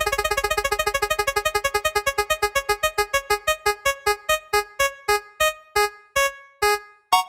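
A synthesized electronic note repeating on one pitch, quick at first and slowing steadily until the notes are about half a second apart, like the ticking of a selection wheel winding down.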